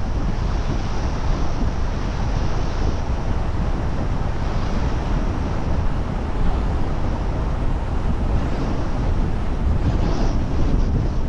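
A car driving along a road: steady tyre and wind noise with a deep rumble underneath, the wind buffeting the microphone.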